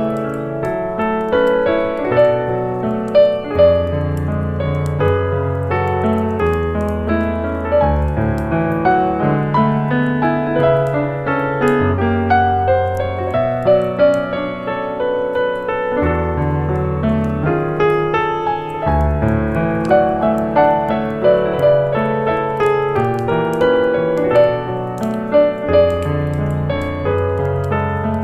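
Background piano music, a soft jazz-style piano piece with a walking bass line under the chords.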